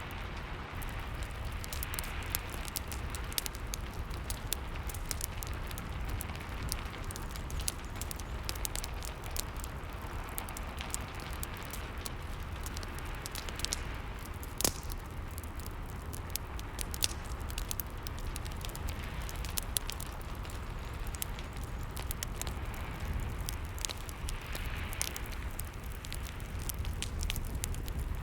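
Wood fire crackling with irregular sharp pops over a steady rain-like hiss and low rumble.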